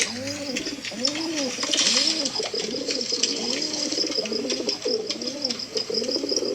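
Several domestic pigeons cooing, overlapping coos that each rise and fall in pitch, repeating about once a second. A faint, rapid high chirping runs steadily underneath.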